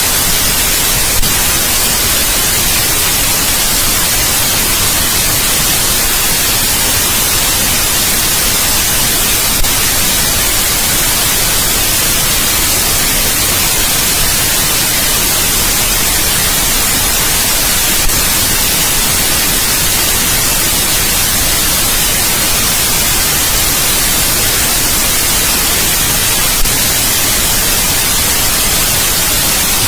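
Steady white noise: an even, unchanging hiss, brightest in the high end, with a faint tick about every eight or nine seconds.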